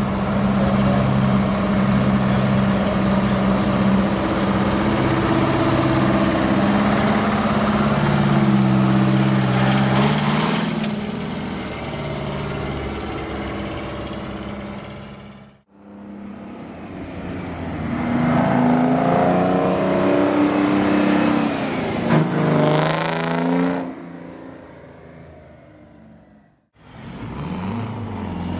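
Detroit Diesel truck engines running and revving, the pitch rising and falling with the throttle, in three clips that cut off abruptly one after another.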